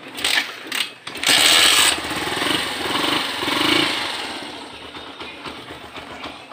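Motorcycle engine revved at a standstill: two short throttle blips, then a louder rev about a second in that holds with a fast pulsing beat and sinks back toward idle over the next few seconds.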